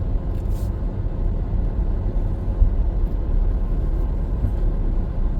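Steady low rumble of a car on the move, even and unbroken.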